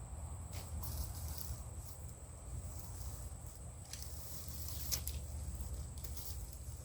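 Low wind rumble on the microphone, with a few faint, scattered sharp clicks.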